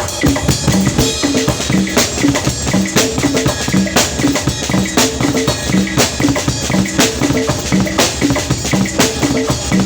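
A drum kit playing a steady beat, with a strong hit about once a second and lighter strokes between, over short repeating low notes.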